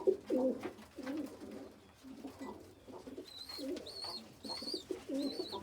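Domestic pigeons cooing with repeated low calls. From about three seconds in, a run of short high cheeps comes about twice a second.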